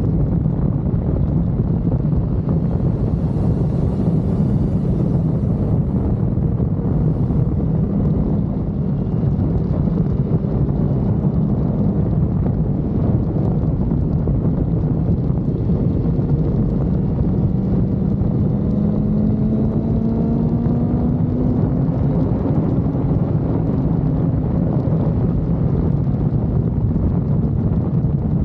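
Superbike riding at speed, wind rushing over the microphone and mostly covering the engine, whose note can be heard rising and falling faintly beneath it, climbing clearly as the bike accelerates past the middle of the stretch.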